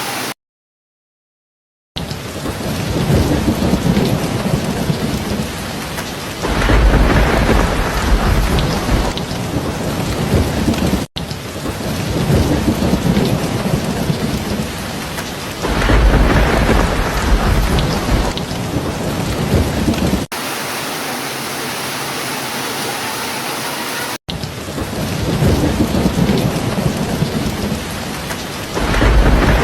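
Steady heavy rain with thunder rumbling three times, roughly every nine seconds. There is a second-and-a-half of dead silence just after the start, and brief breaks later where the recording is spliced.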